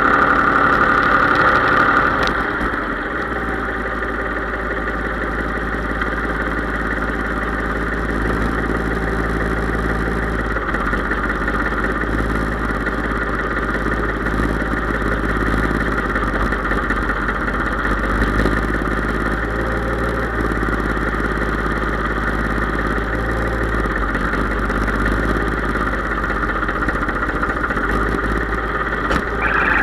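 Case IH 3220 tractor engine running steadily, a little louder for the first two seconds or so before it settles to an even run.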